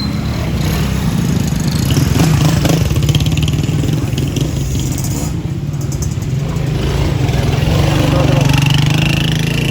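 Motor vehicle engine and road noise while riding in traffic: a steady low rumble, swelling slightly near the end.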